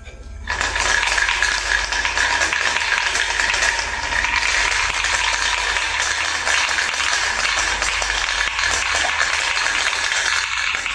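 Two dice rattling fast and without a break inside a plastic cup being shaken hard, starting about half a second in.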